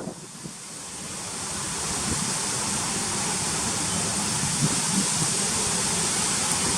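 Typhoon wind and rain: a steady rushing hiss that drops suddenly at the start, then builds back up over the next couple of seconds and holds.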